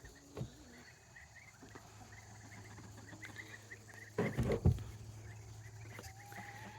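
Young poultry peeping faintly and repeatedly in short high calls, with a loud knock and rustle a little past the middle and a low hum underneath.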